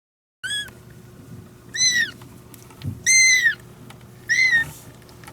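Kitten meowing four times in high-pitched, rising-and-falling cries, each under half a second, about a second apart.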